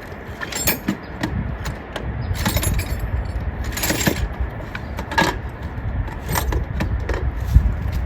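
Scattered clinks and rattles of small metal parts and tools being handled, a dozen or so sharp taps, over a steady low rumble.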